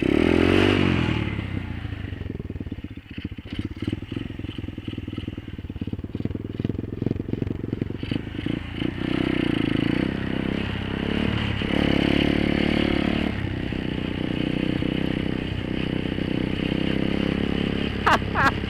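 Apollo 125cc pit bike's single-cylinder four-stroke engine running under way, its pitch rising and falling with the throttle. It is loudest about half a second in.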